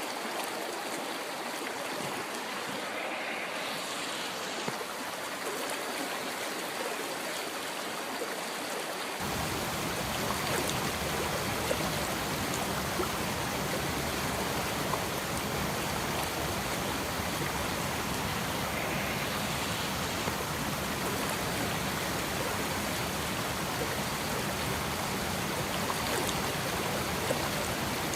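River water flowing in a steady rush. About nine seconds in it turns slightly louder and deeper, then holds steady.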